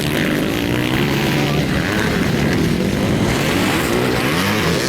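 Motocross motorcycle engines revving, the pitch rising and falling with the throttle.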